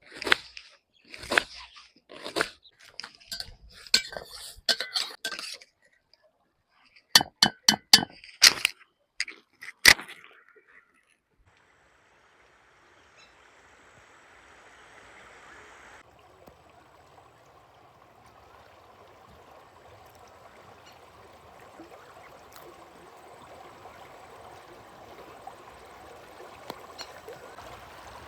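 A run of sharp clinks and taps for about the first ten seconds, then after a brief silence the steady rush of a flowing river fades in and slowly grows louder.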